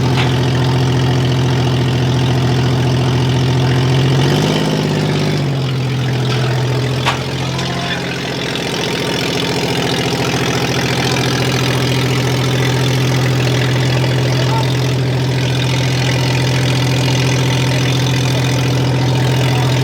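Vehicle engine idling steadily, its pitch shifting briefly about four seconds in, with a single sharp click a few seconds later.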